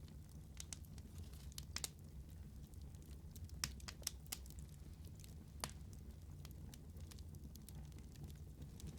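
Wood fire burning: a low steady rumble with scattered crackles and sharp pops, the sharpest about three and a half seconds in.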